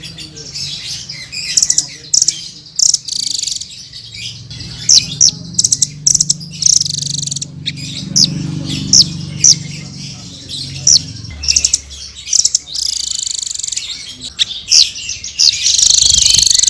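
Blue-crowned hanging parrot (srindit) calling: a run of sharp, high chirps and short fast trills, repeated over and over.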